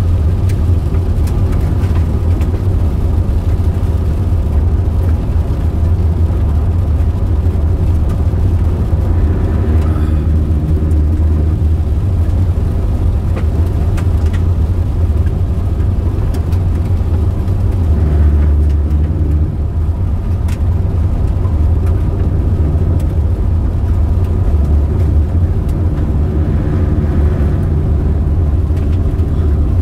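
Steady road noise of a car driving, heard from inside the cabin: a constant low rumble of engine and tyres.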